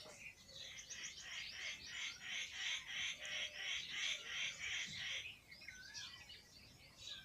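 Small birds chirping and twittering. From about a second in, a fast run of repeated chirps comes about three a second, then breaks into looser warbling notes.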